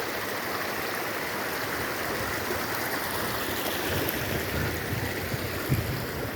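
Steady rushing of fast-flowing water, an even hiss that holds constant throughout.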